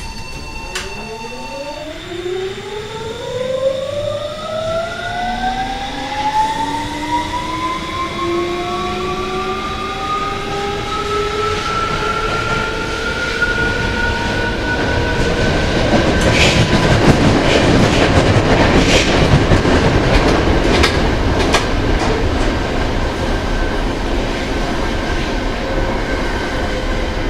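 Tokyo Metro 07 series car's Hitachi full-SiC VVVF inverter and 8-pole permanent-magnet synchronous traction motors whining as the train accelerates: several tones climb in pitch over the first ten seconds or so and then level off. Wheel and rail noise grows underneath, with a few rail-joint clicks about two-thirds of the way through.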